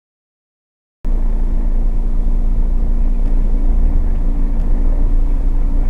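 After about a second of silence, a moving car's engine and road noise cuts in abruptly as a loud, steady low rumble, as a dashcam picks it up.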